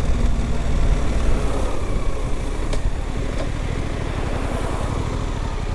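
Suzuki GSX-8S 776 cc parallel-twin engine running at low revs as the motorcycle slows, its firing pulses coming through as a steady low rumble. Two faint clicks come about halfway through.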